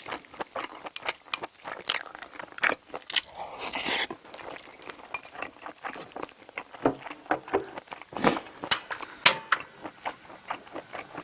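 Close-miked chewing and mouth smacking on a mouthful of stir-fried octopus and rice, in irregular wet clicks, with a few sharper clicks about eight to nine seconds in.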